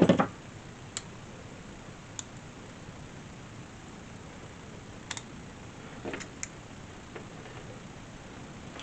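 Handling of tools and small parts: one loud knock at the start, then a scatter of light, irregular clicks.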